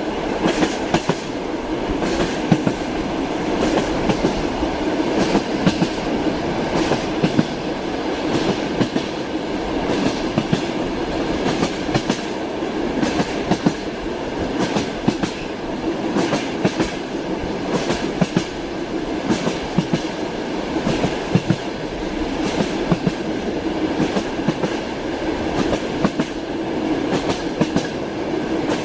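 Inside a moving passenger train car: steady rumble of the running train with the clickety-clack of wheels over rail joints, as frequent short knocks.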